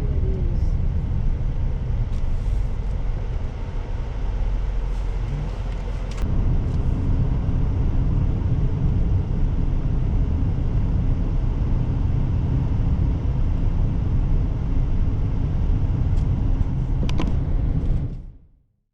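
Steady low rumble of a moving vehicle's engine and road noise, heard from inside the cabin. It grows a little louder about six seconds in and fades out near the end.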